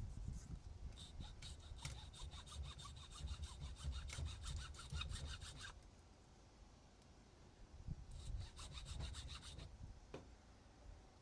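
Hand tool sawing or filing back and forth into the windings of a microwave oven transformer, in two spells of rapid, even scraping strokes with a short pause between, cutting in to see whether the winding wire is copper or aluminum.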